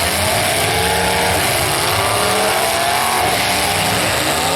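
Demolition derby car engines revving hard, their pitch rising and falling repeatedly over steady loud noise.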